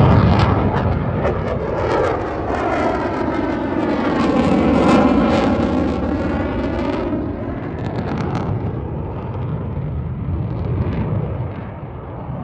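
Fixed-wing airplane flying past, its engine noise loud throughout, with a sweeping, shifting tone in the middle that eases off over the last few seconds.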